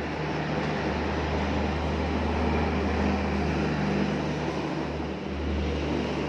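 Train running: a steady low drone with rumbling noise, dipping briefly about five seconds in.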